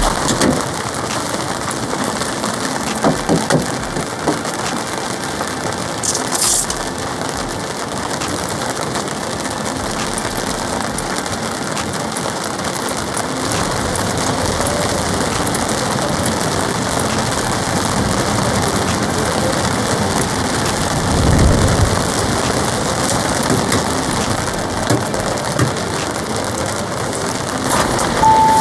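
Heavy rain pounding steadily on a polycotton tarp, a dense even patter. A brief low rumble comes about three-quarters of the way through.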